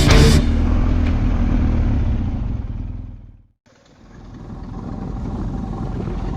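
Motorcycle engine and road noise, a low steady rumble, fading out to a moment of silence about three and a half seconds in, then fading back up.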